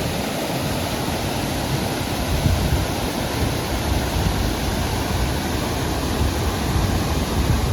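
Steady rushing of a high waterfall, Bambarakanda Falls, with uneven low rumbling underneath.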